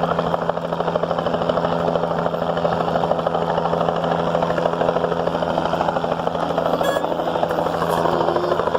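Helicopter running: a steady engine hum with rapid, even rotor chop.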